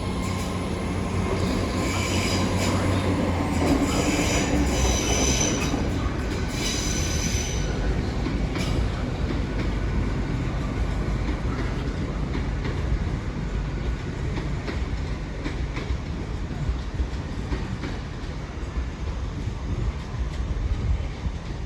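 Passenger train departing the station: a steady rumble of engine and rolling wheels, with high-pitched wheel squeal for several seconds near the start, then the rumble continuing and slowly easing.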